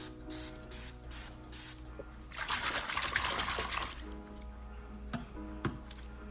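Liquid being squirted in quick bursts, about two a second for the first couple of seconds, then poured for about a second and a half, followed by a couple of sharp clicks; background music plays throughout.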